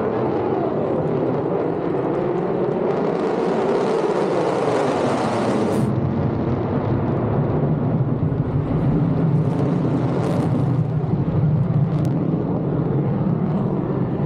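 Military fighter jet flying a demonstration pass: a loud, continuous jet-engine roar whose pitch slides down early on and shifts again as the aircraft moves about the sky.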